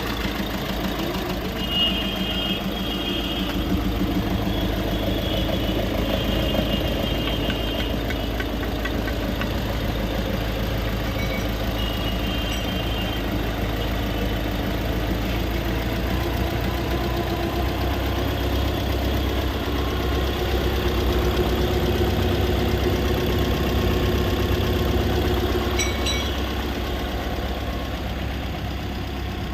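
Car engine idling steadily just after being started.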